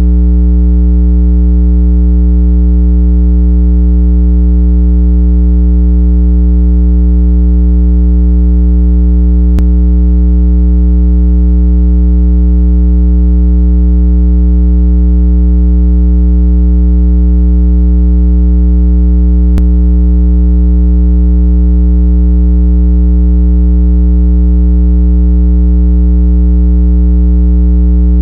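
Steady, loud, low electronic water-eject tone meant to shake trapped water out of earbud speakers. It holds one unchanging pitch with a stack of overtones, and a faint click comes about every ten seconds.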